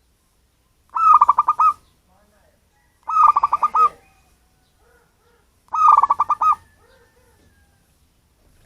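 Zebra dove (local wild perkutut) cooing: three quick phrases of rapid staccato coos, each under a second long, a couple of seconds apart, with soft quieter notes between them.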